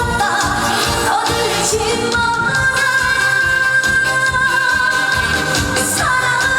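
Live trot song: a female singer's voice over an amplified band backing with a steady beat. She holds one long note from about two seconds in, then slides down in pitch near the end.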